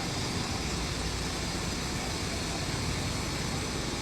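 Heavy-equipment diesel engine running steadily: an even, unbroken rumble with a noisy hiss over it.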